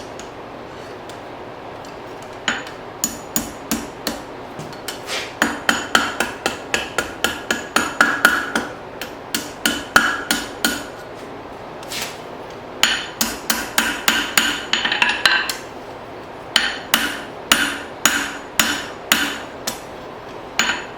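Blacksmith's hand hammer striking a hot fire striker, forged from an old file, on an anvil. The blows come in quick runs of about two to three a second, each one ringing, with short pauses between runs.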